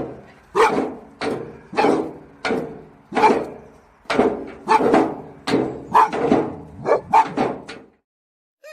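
A dog barking over and over in a steady run, about two barks a second, stopping shortly before the end.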